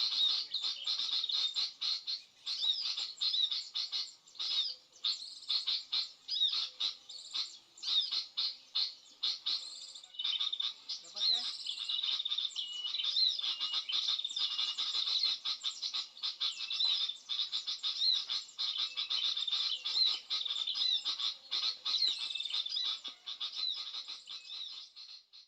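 High, rapid twittering of small birds: many quick chirps run together with brief gaps.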